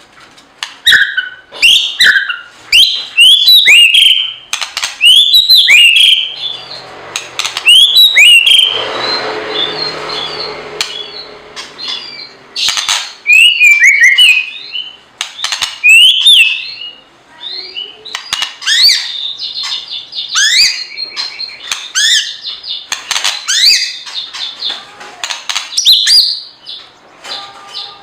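Small birds chirping loudly in quick, irregular series of short hooked notes, with a few seconds of rustling around ten seconds in.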